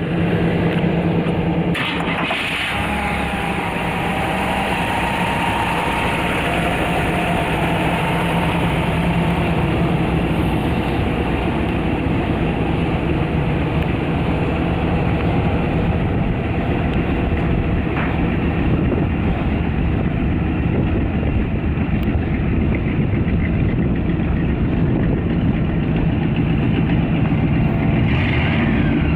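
The 1957 Nash Ambassador's original 327 cubic-inch V8 running steadily at idle.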